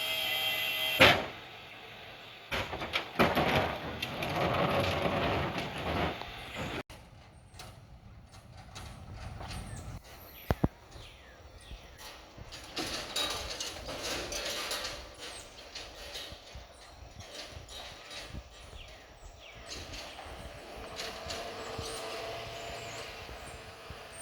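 Recycling pickup truck at work: a steady motor whine cuts off with a loud thump about a second in, followed by scattered knocks, clatter and door-like thuds.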